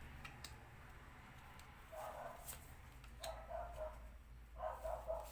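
A dog barking faintly, a few short barks in the second half, over a low steady hum and a few light clicks.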